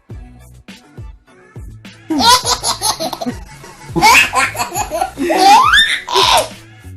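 A laughter sound effect over a hip-hop backing beat. The laughing comes in about two seconds in, is loud, and lasts about four seconds.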